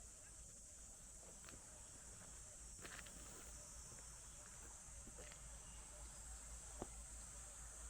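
Faint steady high-pitched insect buzzing in the background, with a few soft scattered ticks.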